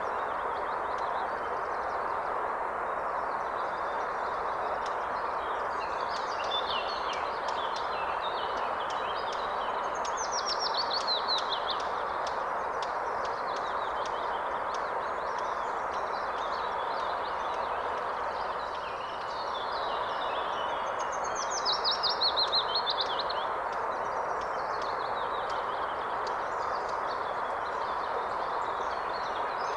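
Steady rushing of a forest river or stream, with songbirds singing over it. Twice a bird gives a loud, fast, descending trill.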